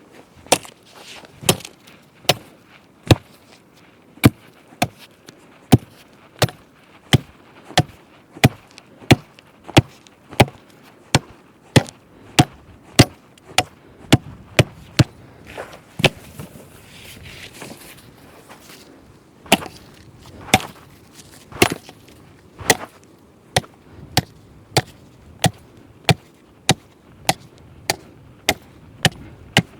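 Wood being chopped with a blade: a steady run of sharp chopping blows, about three every two seconds, with a short pause a little past the middle.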